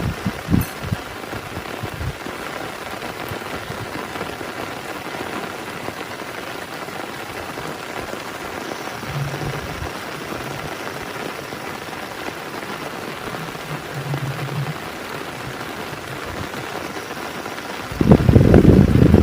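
Heavy rain falling steadily on a surface, with a few low thumps of heavier drops near the start. A loud, low rumble breaks in about a second before the end.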